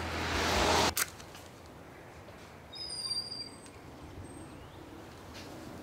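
A rising hiss that cuts off abruptly about a second in, then faint outdoor ambience with a songbird's brief high chirps about three seconds in.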